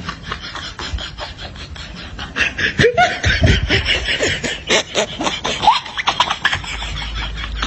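Human laughter: a burst of rapid, choppy laughing pulses that starts a little over two seconds in and dies away before the end.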